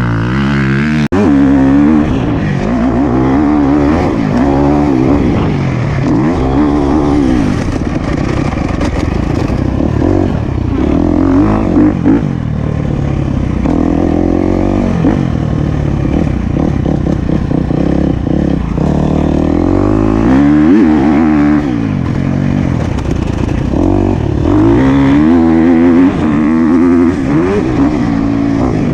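Motocross dirt bike engine revving up and falling back over and over as it is ridden hard, pitch climbing under throttle and dropping off every few seconds.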